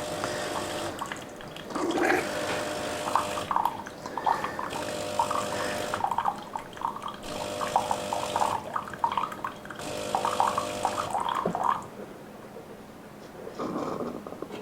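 De'Longhi Eletta bean-to-cup coffee machine running a quick clean cycle: its pump hums while hot water spurts and gurgles into a cup. The flow stops about 12 seconds in.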